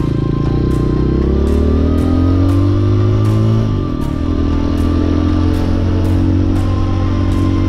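Hawk 250 dual-sport motorcycle's single-cylinder engine accelerating, rising in pitch for about three and a half seconds, dropping at a gear change, then pulling on steadily in the next gear.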